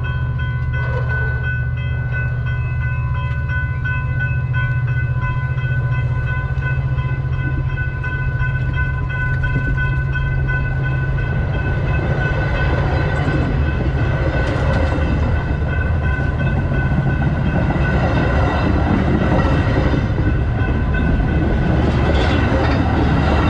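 Metra commuter train cars rolling directly over the lens at track level: a steady low rumble of wheels on rail with a steady high whine above it. The rolling noise grows louder about halfway through.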